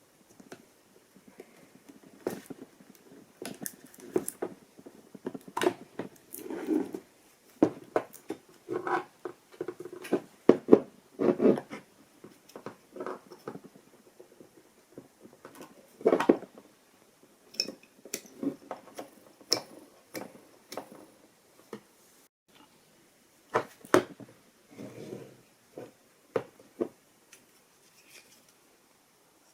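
Irregular clicks, taps and scrapes of hard plastic parts being handled: a washing machine's recirculation pump being worked off its housing for replacement.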